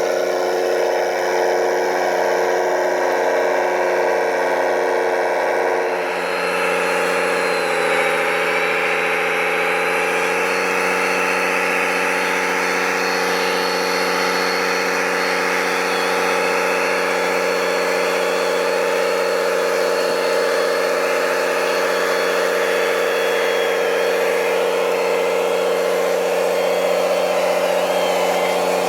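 Scale RC truck engine sound running steadily at an idle-like pace; the note shifts about six seconds in, dips briefly, then holds steady.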